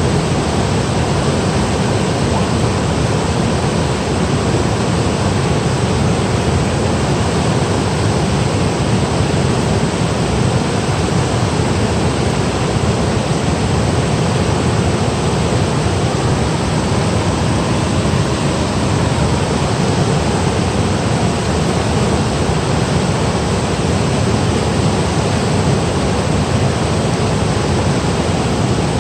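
Valley stream and small waterfall rushing over rocks: a loud, steady rush of water that does not change.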